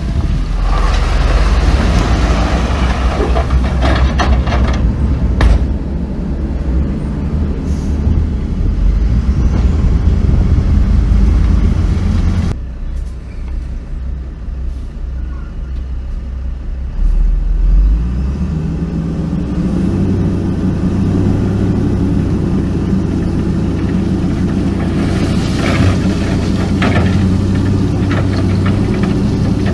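Heavy diesel earthmoving machinery running: dump truck and bulldozer engines rumbling under load. About twelve seconds in the sound cuts abruptly to a quieter, rougher stretch. It then settles into a steady engine drone, with a few short bursts of higher-pitched noise.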